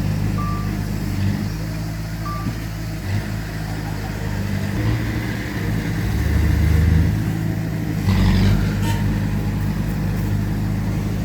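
Heavy diesel earthmoving machinery running steadily, its engine note rising in load twice late on, with two short beeps near the start and a brief clatter about 8 seconds in.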